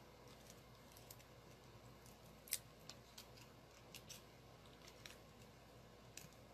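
Faint, scattered clicks and taps from small paper-crafting supplies being handled at a desk, the loudest about two and a half seconds in, over quiet room hum.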